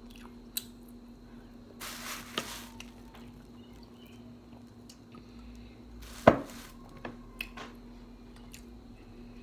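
Eating sounds from a seafood boil of crab and lobster: scattered small clicks and a short rustle, with one sharp crack about six seconds in, over a faint steady hum.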